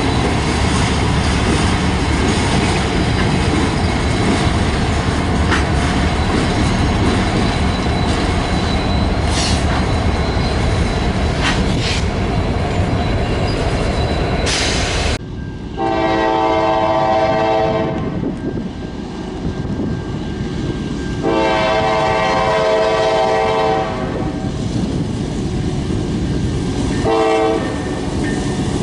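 A train passing close, a steady rumble of wheels on rail with a few sharp clicks. About halfway through the rumble cuts off, and a locomotive air horn sounds two long blasts and one short one.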